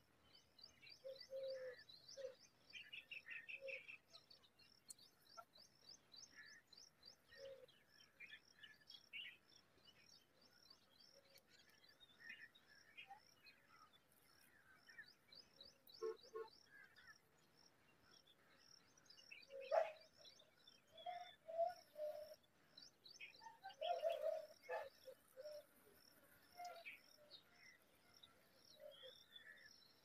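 Faint birdsong: a string of quick, high chirps, with short lower calls now and then, loudest about two-thirds of the way through.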